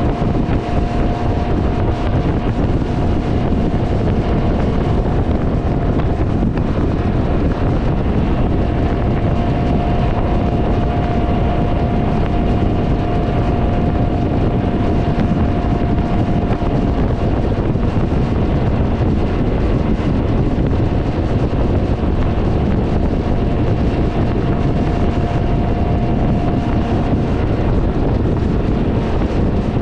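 Heavy wind noise buffeting the microphone on a moving Can-Am Ryker three-wheeler, with the machine's running drowned in a loud, steady rumble. A thin steady whine fades in and out a few times.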